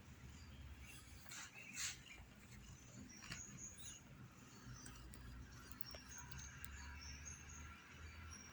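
Faint, high little squeaks with a few soft clicks: newborn kittens squeaking.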